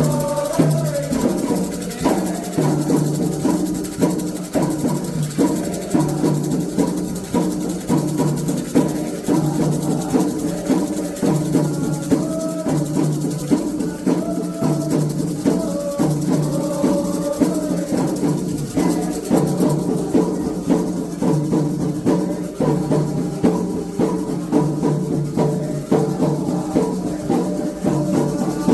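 Candomblé ritual percussion: drums and a rattling shaker playing a fast, steady rhythm, with voices singing at times.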